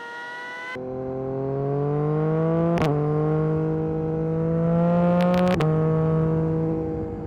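Yamaha MT-09 SP's inline-three engine through an Akrapovic carbon racing exhaust, accelerating under load. The pitch climbs, drops sharply on an upshift about three seconds in, climbs again and drops on a second upshift about five and a half seconds in, then holds steady.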